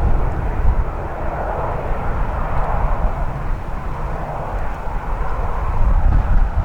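Jet airliner engines running steadily at low power, mixed with strong gusty wind buffeting the microphone in an irregular low rumble.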